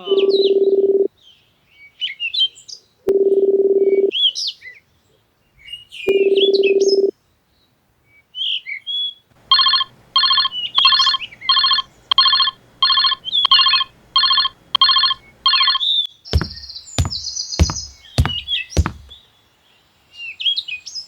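Birds chirping, mixed with electronic tones: three long steady beeps about three seconds apart at the start, then a fast pulsing ring of about two pulses a second for some six seconds midway, then five quick downward sweeps near the end.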